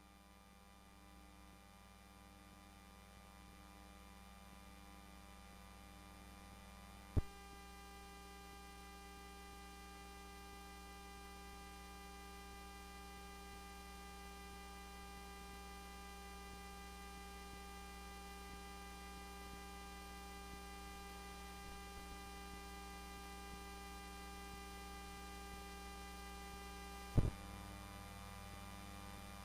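Steady electrical hum made of many fixed tones, slowly growing louder. A click about seven seconds in adds more tones to the hum, and a second click near the end takes them away again.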